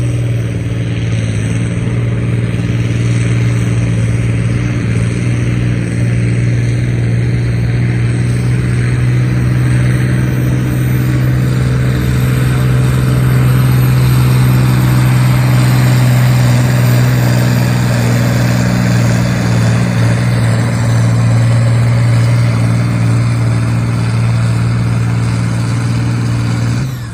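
Competition pulling tractor's engine running hard under load, a loud, steady drone held at an even pitch.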